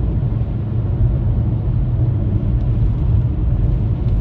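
Steady low rumble of a car driving on a highway, its road and engine noise heard from inside the cabin.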